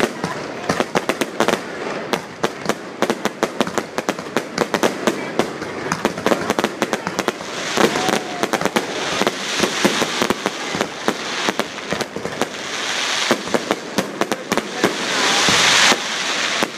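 Aerial fireworks bursting overhead in quick, dense succession of sharp cracks and bangs. A hissing crackle builds over the last few seconds and drops off abruptly near the end.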